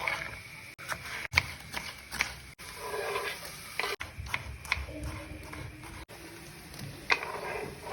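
Kitchen utensils knocking and clicking while food is prepared: a string of short, irregular sharp knocks and scrapes.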